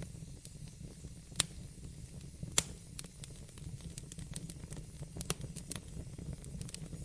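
Wood fire in a fireplace crackling over a steady low rumble of the flames. Two sharp pops come about a second apart near the start, followed by a run of smaller snaps.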